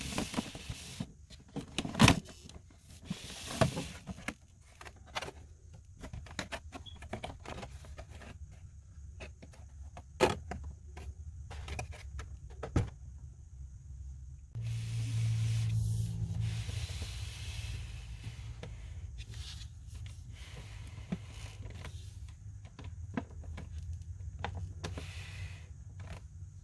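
Packaging being handled in a figure unboxing: scattered sharp clicks, taps and rustles of cardboard and plastic, then about halfway through a steady low hum with a rubbing sound that starts suddenly and carries on.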